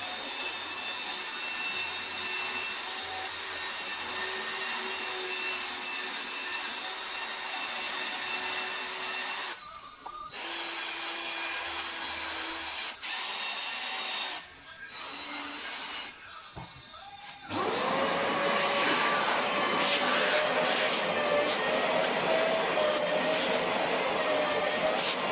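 Vacuum cleaner running steadily, cutting out briefly a few times in the middle. From about two-thirds of the way through it runs louder, with a slowly rising pitch.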